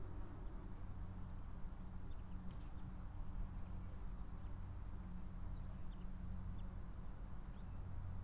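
Outdoor ambience: scattered high bird chirps over a steady low hum, with a thin high whistled note held for about two seconds near the middle.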